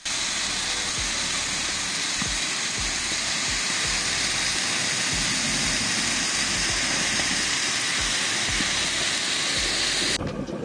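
Water rushing steadily, a loud even hiss with low rumbles underneath, cut off abruptly near the end.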